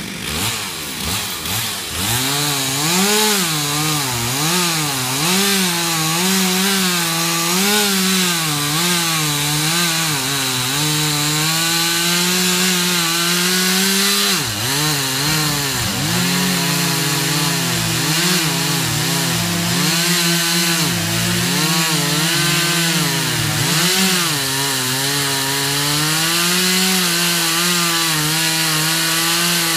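Chainsaw running hard and cutting wood, its engine pitch wavering as it loads down in the cut and revs back up, with a few deep dips in pitch.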